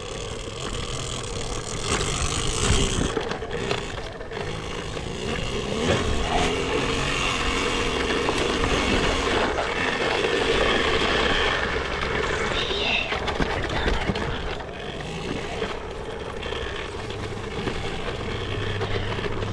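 Dirt bike riding over a rough trail: the motor runs steadily under a clatter of tyre and chassis noise, with occasional knocks over bumps.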